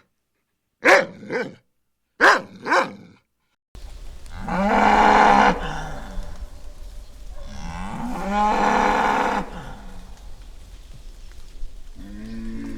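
Cow mooing, two long calls a few seconds apart. They follow two pairs of short, sharper animal calls in the first few seconds.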